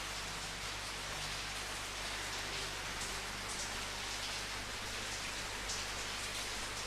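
Steady rain falling, an even hiss with fine patter of drops, over a faint constant low hum.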